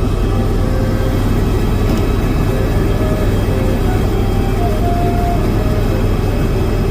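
Helicopter cabin noise: the steady drone of the engine and rotor, strongest in the low end.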